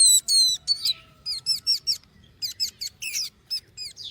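Several rescued nestling birds giving rapid, high-pitched begging chirps while being hand-fed, each chirp a short downward slide, with a lull of about a second before they start up again.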